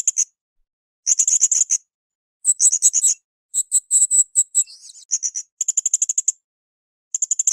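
Blue-crowned hanging parrot (srindit) in full song: about six short, rapid, high-pitched trilled phrases, each under a second long, with short silent gaps between them.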